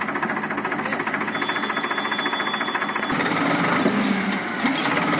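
Powertrac tractor's diesel engine running with a rapid, even knocking beat. About three seconds in it grows louder and rougher.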